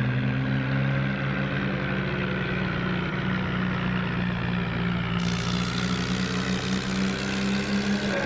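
Tractor engine running at a steady speed, a continuous low drone.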